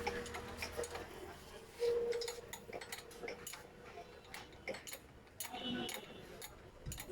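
Scattered light metallic clicks and clinks of small parts, a bolt and hand tools being handled while the ignition switch is fitted to a motorcycle, with a brief hum about two seconds in.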